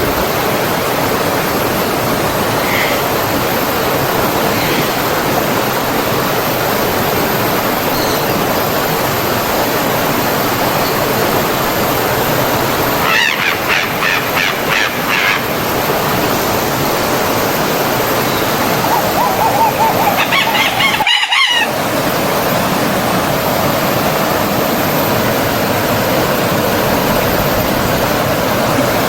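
Steady rushing of a stream or small waterfall, with bird calls standing out twice, about halfway through and again around two-thirds in. Just after the second call, all sound cuts out for an instant.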